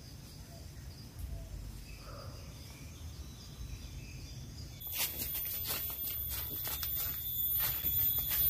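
Wind buffeting the microphone as a low rumble, with a faint steady high chirring. About five seconds in the sound changes abruptly to a louder, steady high-pitched whine with irregular sharp clicks.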